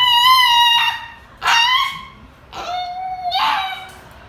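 A dog crying out in long, high-pitched yelping wails during a nail trim, three cries of about a second each. Its distress is at being handled and trimmed, not at being hurt.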